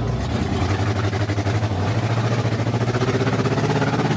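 Ford 289 small-block V8 with open headers running at low revs, heard from inside the truck's cab, with a fast, even pulsing beat; the pitch climbs gradually over the second half as the engine picks up revs.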